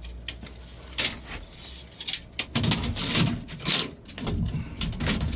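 Irregular knocks, clicks and scrapes of handling a tape measure and tools while measuring, starting about a second in.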